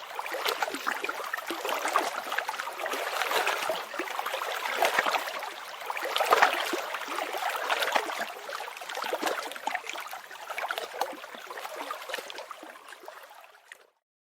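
Running water, a steady dense sound full of fine crackle, fading out near the end.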